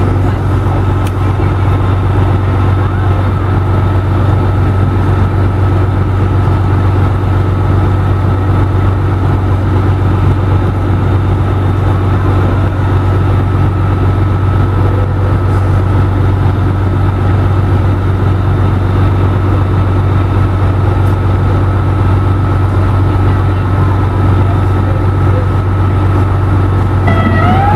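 Fire truck engine idling, a loud steady low hum. Near the end a siren begins to wind up.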